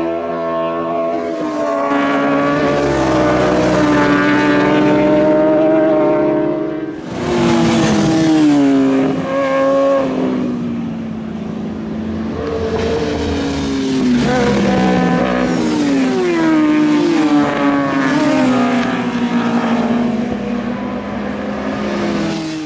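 Superbike racing motorcycle engines at high revs, the pitch climbing and then dropping again and again through gear changes. There is a short dip in level about seven seconds in.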